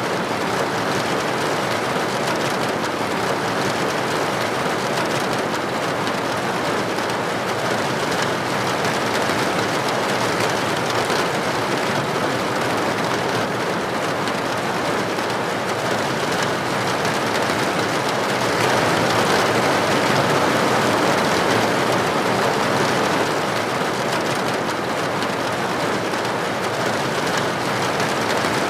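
Steady rain falling on a window or roof: an even, dense patter that swells slightly about two-thirds of the way through.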